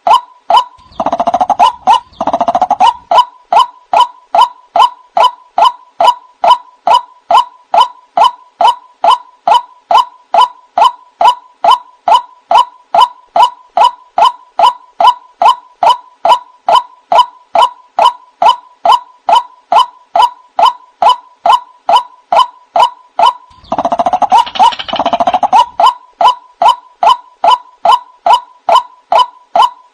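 White-breasted waterhen (ruak-ruak) calling: a steady, monotonous run of 'kwak' notes, about two a second, broken twice by a louder, harsher burst of calling, once near the start and once near the end.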